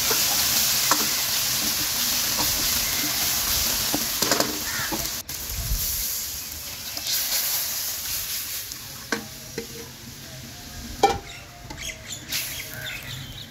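Spiced masala sizzling as it fries in a wok and is stirred with a wooden spatula, loud for the first five seconds. After a cut the frying is quieter, with a few scrapes and clicks and one sharp knock about eleven seconds in.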